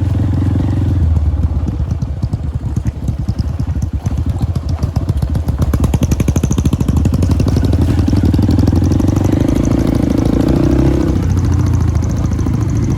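Motorcycle engine running steadily under way, its rapid exhaust pulses loud and continuous, growing a little louder about halfway through.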